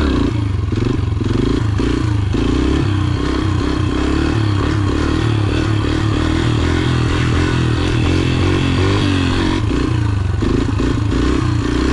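Yamaha TT-R125 dirt bike's single-cylinder four-stroke engine running under way, its pitch rising and falling as the throttle is worked.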